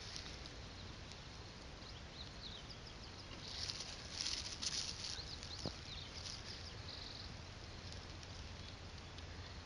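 Small birds chirping in quick short calls, busiest about halfway through, over a faint low outdoor rumble. A single small click a little after the middle.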